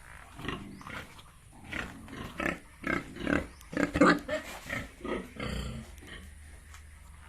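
Pigs making a quick run of short calls, loudest about halfway through, that stops about six seconds in.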